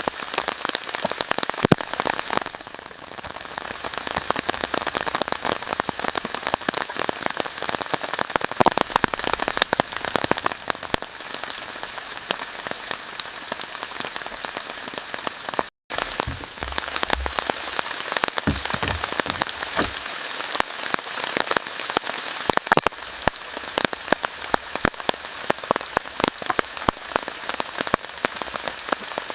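Steady rain falling, with dense fine drop ticks on surfaces. The sound cuts out for an instant about halfway through, and a few low thuds follow shortly after.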